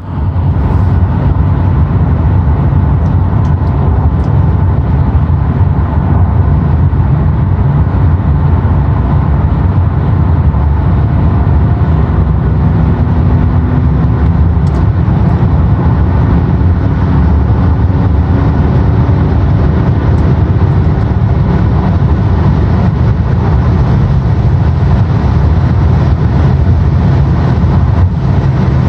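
Opel Omega B 3.0 DTI 24V diesel heard from inside the cabin, pulling hard in one gear at high speed with a steady engine drone that slowly rises in pitch as the revs climb, mixed with heavy wind and road noise.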